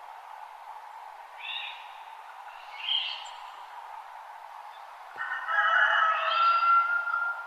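Wild birds singing at dawn over a steady background hiss: two short chirping calls in the first three seconds, then a louder, busier burst of song from about five seconds in that ends on a held whistled note.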